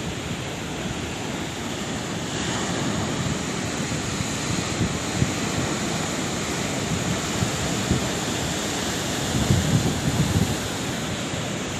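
Sea waves in a steady surf, washing and breaking on the shore, with a swell of wash about two seconds in and a louder, rumbling break near the end.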